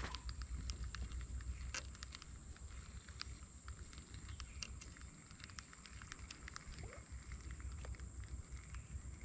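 Outdoor ambience: a low rumble, likely wind on the microphone, under a steady high-pitched whine. Scattered light clicks and ticks run through it.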